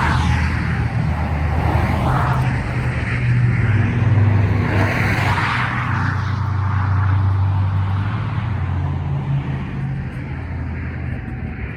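Steady low rumble of a running motor vehicle, with a few swells of rushing noise, and fading slightly near the end.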